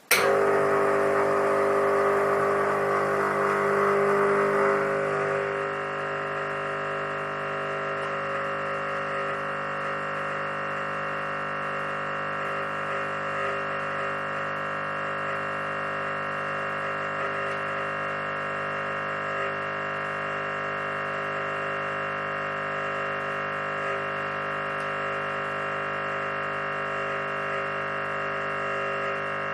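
Espresso machine's pump running during a backflush against a blanking disc: a steady buzzing drone that starts suddenly, louder for the first five seconds or so while water still flows freely, then settling to an even hum as pressure builds behind the blanked group head.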